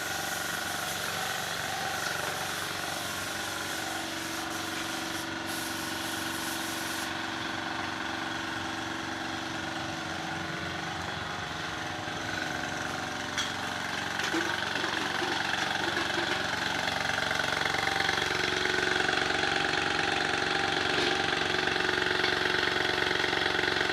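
A motor running steadily, with several held tones over a noisy hum. A high hiss drops away about seven seconds in, and the sound grows gradually louder through the second half.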